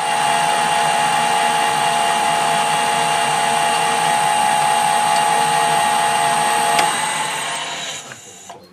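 Metal lathe running with a steady whine, switched off about seven seconds in and running down to a stop.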